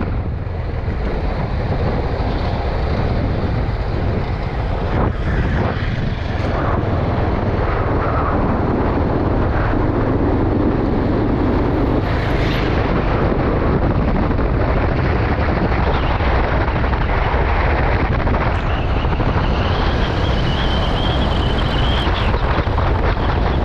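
Motorcycle riding at speed: steady wind rushing over the microphone, with engine and road noise underneath.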